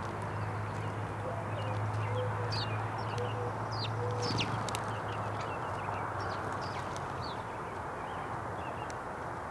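Small wild birds giving many short, high chirps, scattered irregularly, over a steady background hiss and a low hum that fades out about three-quarters of the way through.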